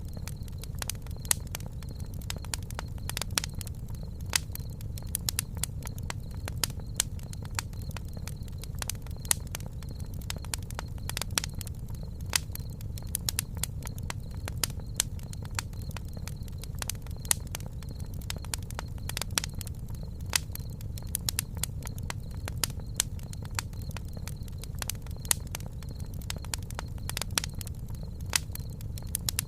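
Campfire burning, with frequent irregular crackles and pops over a steady low rumble of the flames.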